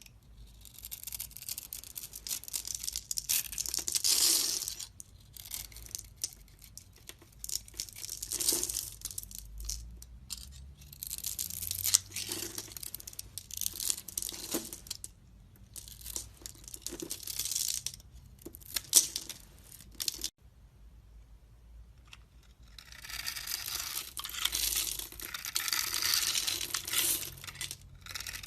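Knife blade cutting and scraping through soap in a series of strokes, each a second or two long, with a quiet pause about two-thirds of the way through and a longer stroke near the end.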